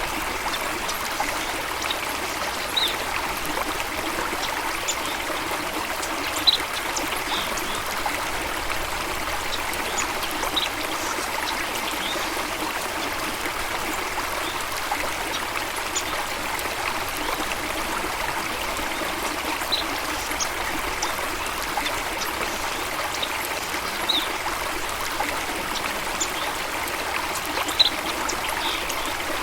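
Stream water running steadily, with short high bird chirps here and there over it.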